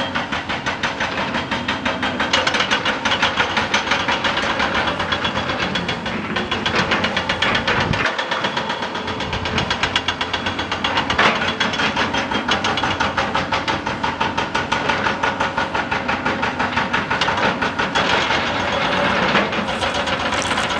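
Excavator-mounted hydraulic rock breaker hammering rock in a fast, continuous rattle of blows, over the excavator's running diesel engine.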